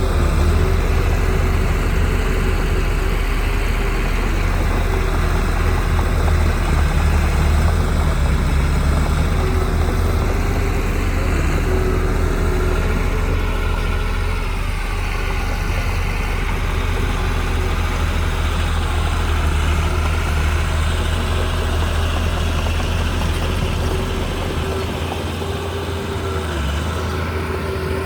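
Heavy diesel engine of earthmoving machinery running without a break, deep and loud, its pitch wavering up and down a little as the load changes.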